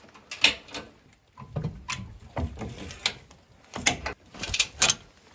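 A run of irregular clicks and knocks, some with dull low thuds, about a dozen in all.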